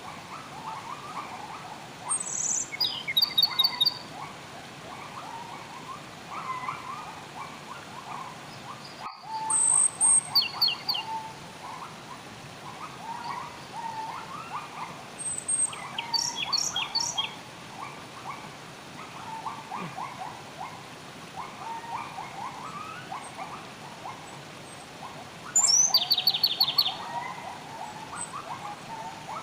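Wild birds calling, with a dense chatter of short calls throughout and four louder bouts of high, quickly repeated notes from one bird, over a steady hiss. A brief dropout cuts the sound a little after a quarter of the way in.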